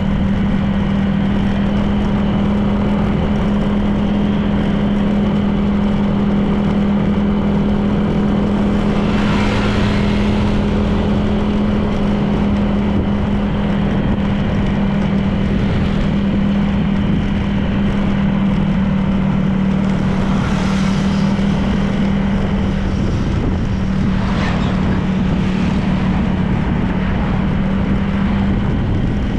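Honda PCX 160 scooter's single-cylinder engine and CVT running at a steady cruising speed, a steady drone with road noise. Three brief rushes of noise come and go, about a third, two-thirds and five-sixths of the way through.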